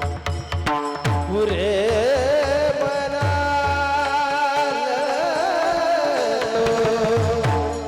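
Kirtan singing: a male voice holds one long, high sung line with a wavering, ornamented pitch, over drum strokes whose bass notes fall in pitch. The sung line stops near the end while the drumming goes on.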